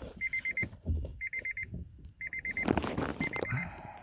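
Honda Odyssey's electronic warning chime repeating once a second, each time a quick burst of about four high beeps. Knocks and rustling from hands working on the steering column come between the chimes.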